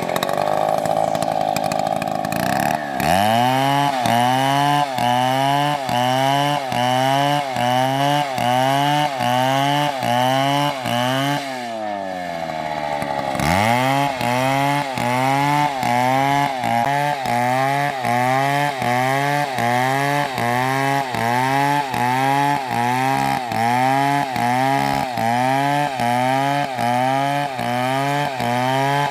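Large two-stroke chainsaw (an MS720) running at a steady high pitch, then dropping into a cut about three seconds in. Its engine pitch then dips and recovers about one and a half times a second as the saw works under load. About twelve seconds in the engine bogs down low and revs back up before the rhythmic cutting carries on.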